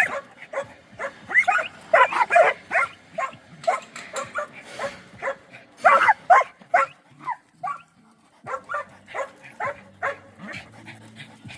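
Several dogs barking rapidly at one another, a dense run of sharp barks that thins out and gets quieter about eight seconds in.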